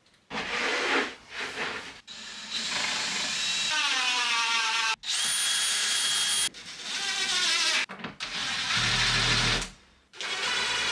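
Power drill running in several short stretches, its whine rising and falling, each stretch breaking off suddenly.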